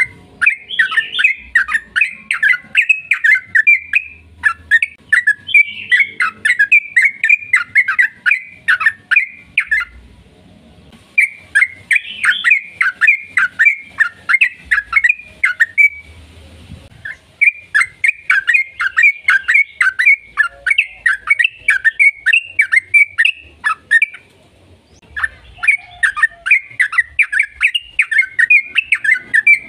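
Yellow-vented bulbul (trucukan) singing in long, rapid runs of bubbly chattering notes, in four bouts of several seconds each with short pauses between.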